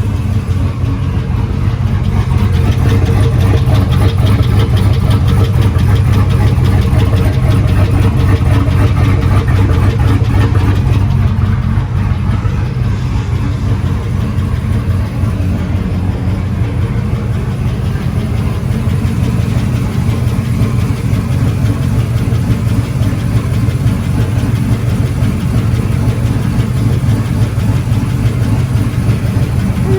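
Truck engine idling steadily just after a camshaft swap, running smoothly and sounding healthy.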